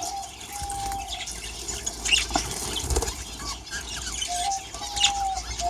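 Budgerigars in an aviary chirping and chattering, with wing flaps and a few short, level whistled notes.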